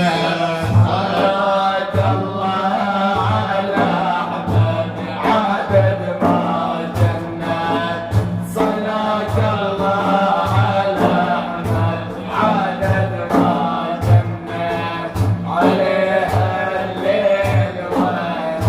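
Iraqi religious praise song (madih): men's voices chanting over a steady drum beat of about two strokes a second.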